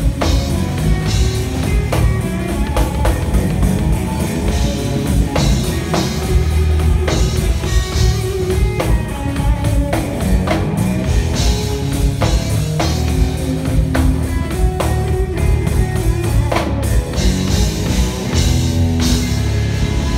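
Live band music: electric guitar over drum kit and bass in a rock groove, with regular drum hits.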